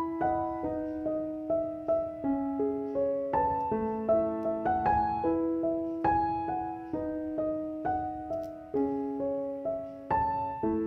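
Background music: a gentle piano melody, one note after another at an even, unhurried pace.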